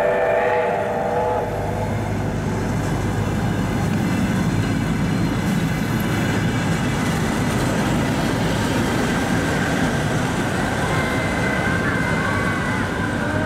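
Passenger train rolling slowly past: a steady low rumble from the carriages on the rails. A multi-tone train whistle fades out in the first second.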